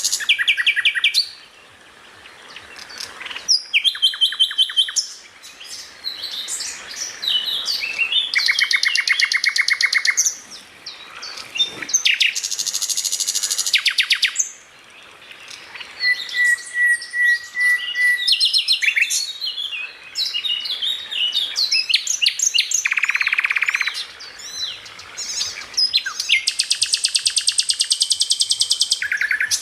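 Cucak ijo (greater green leafbird) singing loudly in 'tembakan' style: long runs of very rapid, high trills alternating with varied chattering whistles, with short pauses between phrases.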